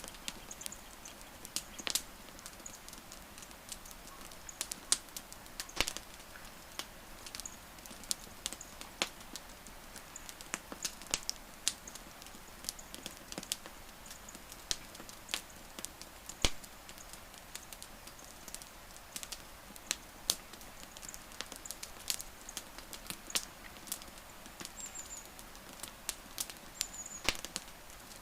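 Wood campfire crackling, with irregular sharp pops and snaps, several of them a second, some much louder than the rest, over a soft steady hiss. A few short, high chirps sound faintly near the end.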